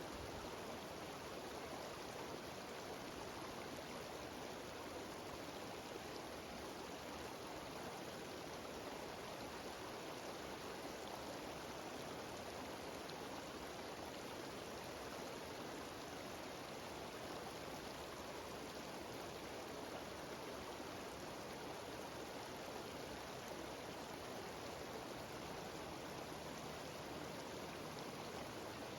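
Mountain waterfall cascading down a stream, a steady, even rush of water that does not change.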